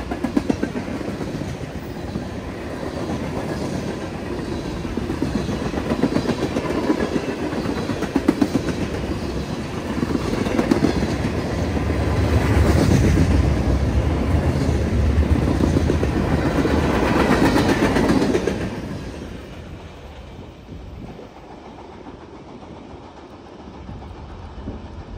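Freight cars of a manifest train (tank cars, covered hoppers and gondolas) rolling past: a steady rumble of steel wheels with repeated clickety-clack over the rail joints. About 19 seconds in the last car goes by and the sound drops sharply to a fainter fading rumble.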